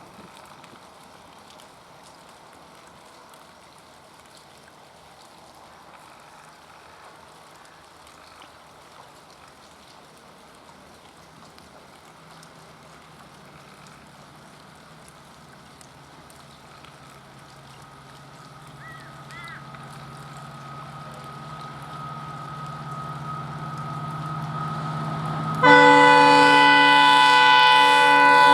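Approaching Indian Railways locomotive: its running noise and a steady whine grow louder over the last ten seconds, then its horn sounds one long, loud blast near the end.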